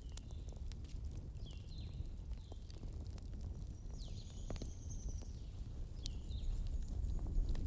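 Campfire crackling with sharp pops over a steady low rumble, while a bird chirps several times in short, partly down-sweeping calls, one of them a longer, higher note about halfway through.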